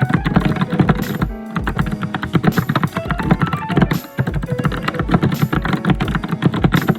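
Fast, continuous typing on a computer keyboard: dense, rapid clacking keystrokes, with a brief lull just over a second in and another around four seconds in.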